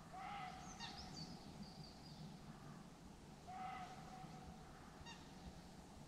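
Faint bird calls over quiet lakeside background: a short call near the start, another about three and a half seconds later and a brief one near the end, with thin high chirps in between.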